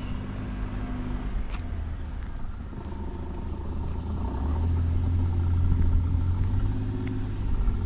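Car driving, a steady low engine and road rumble that grows louder about halfway through as it picks up speed.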